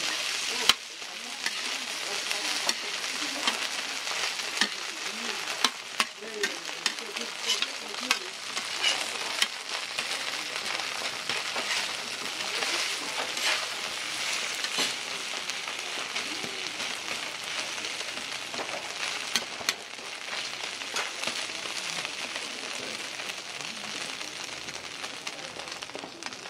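Beaten egg and glass noodles sizzling on a flat-top griddle, with a metal spatula scraping and tapping against the griddle plate as the patties are pressed, chopped and turned. The sizzle is steady, and the spatula strikes come at irregular intervals.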